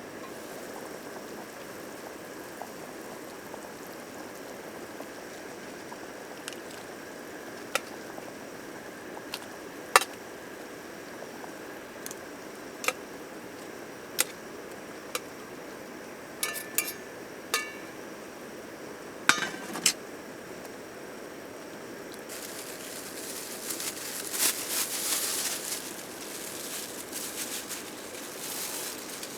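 Sharp light clinks of glass and tableware, scattered singly through a steady low hiss, some coming in quick pairs. Near the end a louder rushing hiss swells and fades over a few seconds, like liquid being poured or a pot boiling.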